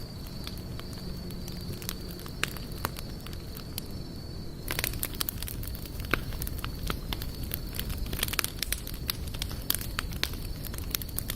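Wood campfire crackling, with irregular sharp pops and snaps over a low rumble; the popping grows busier about five seconds in. A faint steady high whine runs underneath.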